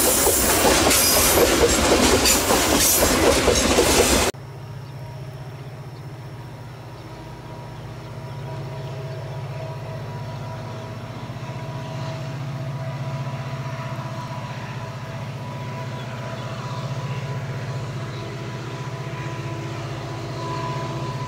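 Steel coal hopper wagons of a long freight train rolling past close by, a loud wheel-and-rail noise that cuts off about four seconds in. After it, a steady low engine drone from two CC 205 diesel-electric locomotives approaching at a distance, slowly getting louder.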